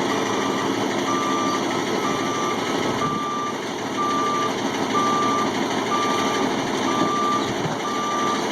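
Tow truck's reverse alarm beeping about once a second, each beep about half a second long, as the truck backs up, over the steady running of its engine.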